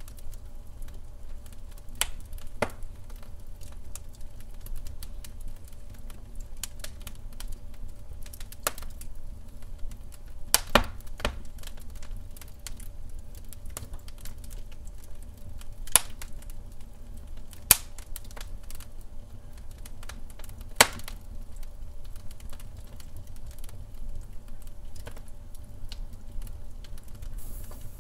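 Wood fire crackling in a fireplace: irregular sharp snaps and pops over a low steady rumble of the flames, with a few louder pops spaced several seconds apart.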